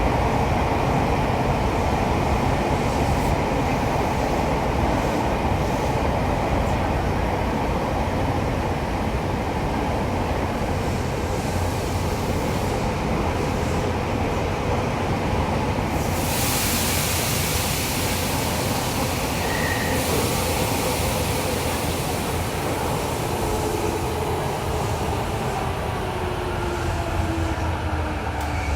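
Running noise of a Tokyo Metro 7000 series train car: a steady rumble of wheels on rail, with a few seconds of louder hiss past the middle. Over the last few seconds the Mitsubishi IGBT-VVVF inverter's whine glides down in pitch as the train slows.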